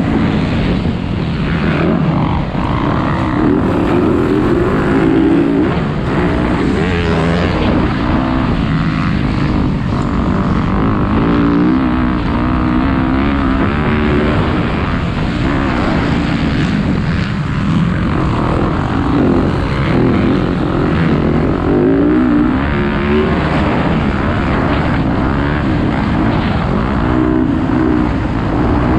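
Motocross dirt bike engines running on a dirt track, their pitch rising and falling over and over as the riders open and close the throttle.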